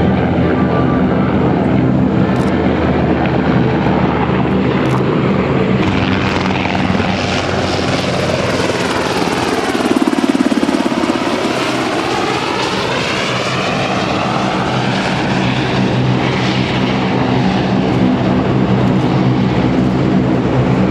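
UH-60J helicopter's twin turboshaft engines and rotor running steadily as it flies past. A sweeping whoosh falls and then rises again, and the sound is loudest about halfway through as the helicopter passes closest.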